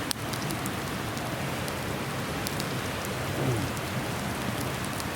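Beef bone marrow grilling over a campfire: a steady sizzling hiss with many small sharp crackles and pops scattered through it.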